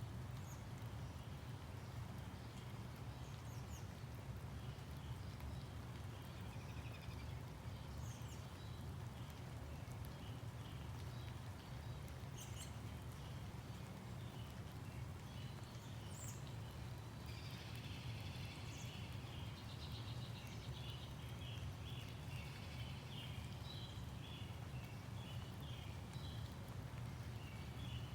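Birds chirping and calling over a steady low rumble of background noise, the calls growing busier in the second half.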